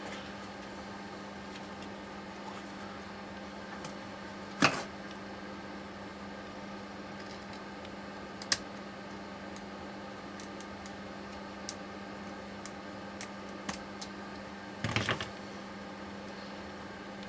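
Tools and metal steering rack parts knocking and clinking over a steady low hum. There is a sharp knock about five seconds in, a click a few seconds later, and a quick rattle of several knocks near the end.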